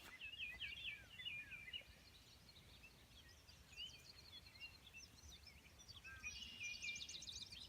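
Songbirds singing faintly, a mix of short chirps and whistled glides, with a fast trill near the end, over a faint low rumble.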